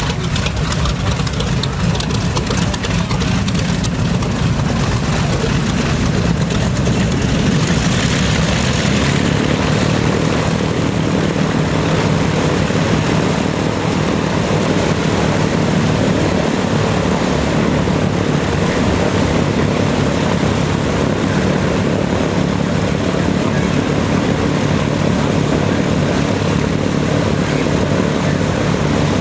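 WWII piston-engined warbird flying overhead, its propeller engines droning loudly and steadily. The sound brightens for a few seconds near eight seconds in as it passes closest.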